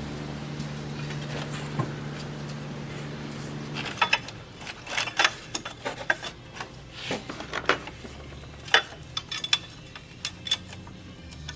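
A steady low hum stops about four seconds in. After it comes a run of irregular metallic clinks and clicks, as of metal tools or small parts being handled.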